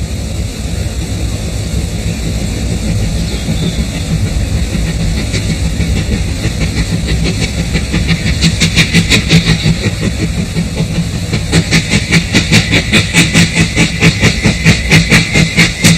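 Steam locomotive hissing steam, then chuffing in a regular exhaust beat that starts about halfway and settles at about three to four chuffs a second.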